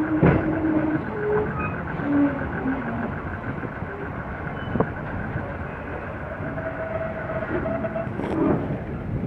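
Diesel-hauled passenger train of the State Railway of Thailand approaching slowly, its locomotive engine running with a steady rumble, over a steady rapid high-pitched pulsing.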